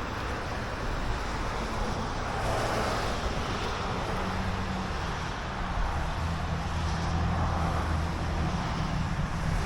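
Steady road traffic noise from passing vehicles, with a low engine hum that grows stronger from about two seconds in.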